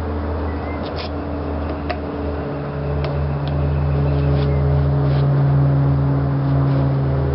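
An engine running steadily, growing louder about two and a half seconds in, with a few light clicks.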